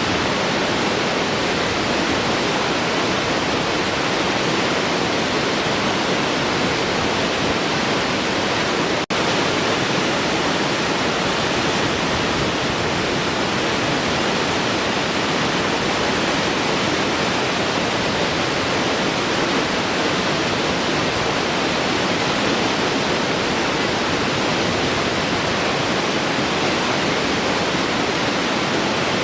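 Large waterfall, water pouring and crashing in a steady, dense rush, with a momentary break about nine seconds in.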